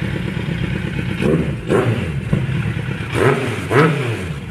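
Motorcycle engine running, with several short throttle blips that make the pitch rise and fall.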